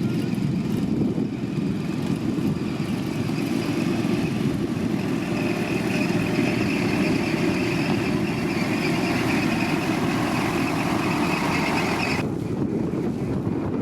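Heavy diesel road-construction machinery running steadily, with a high whine joining a few seconds in; the sound changes abruptly near the end.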